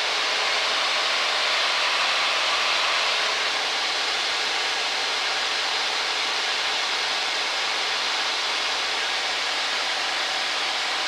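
Steady cabin noise of a Cessna 172 XP in cruise: the engine and propeller make an even hiss-like drone that holds constant throughout.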